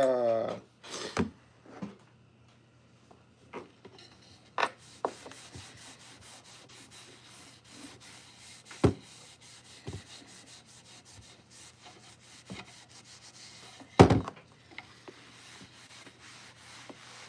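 Oil being rubbed by hand into a wooden cutting board of cherry, walnut and maple: a faint continuous rubbing on the wood, with scattered light knocks, the loudest about 14 seconds in.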